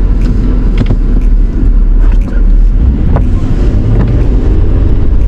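Chevy Tracker driving off-road, its engine running under load with a heavy low rumble, and a few short knocks and rattles from the body over the bumps.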